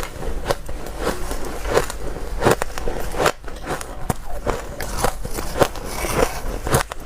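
Someone biting and chewing hard frozen ice: irregular crisp crunching cracks, about two a second.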